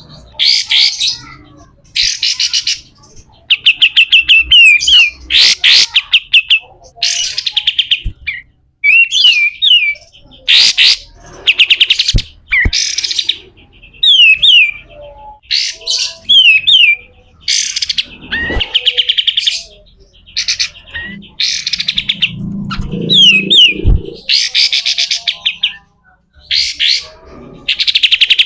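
Kapas tembak bulbul singing harshly in the 'besetan' style. Repeated bursts of very fast, buzzy rattling notes alternate with quick down-slurred whistles, with short pauses between phrases.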